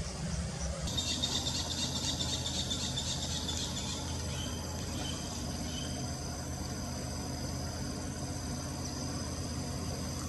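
Insects chirping: a dense, rapid high trill starts about a second in and stops around four seconds in, then several steady high chirring tones carry on, over a low steady rumble.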